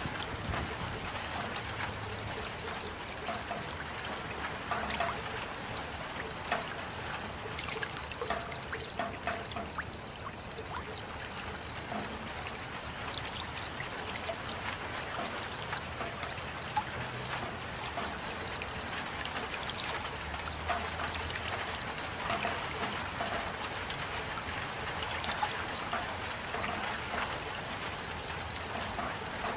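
Steady rain falling, with many separate drops and drips ticking over a continuous hiss of water.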